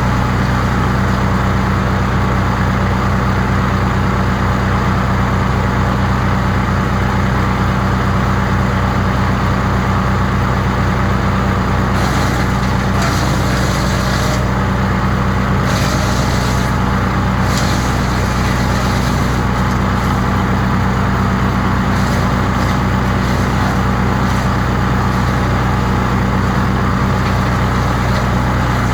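Crytec 15 hp wood chipper engine running steadily at a constant speed, with a loud, even hum. The higher hiss over it shifts a few times around the middle.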